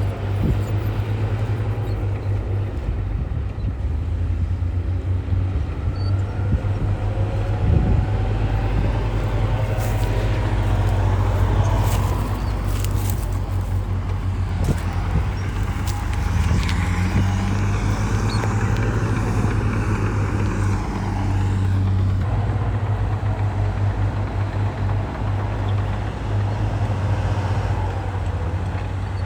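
Heavy diesel earthmoving machinery running steadily, with a cluster of sharp metallic clanks about ten to sixteen seconds in.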